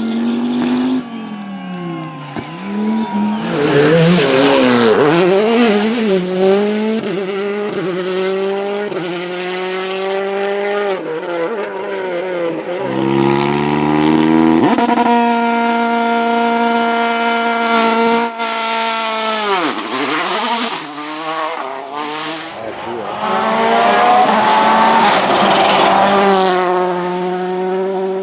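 Rally car engines revving through gear changes, the pitch climbing and falling repeatedly, with a long steady high-revving stretch about halfway and a sharp drop in revs just after it.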